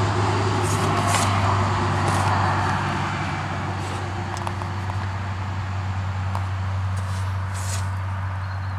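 A steady low hum with a faint noise haze, with a few light clicks and scuffs scattered through it.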